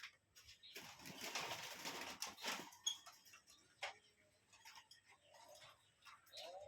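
A bird flapping its wings in a rustling flutter for about two seconds, then scattered light taps and faint chirps.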